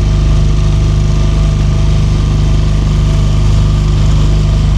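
Small motorboat engine running steadily at low speed, a constant hum close by.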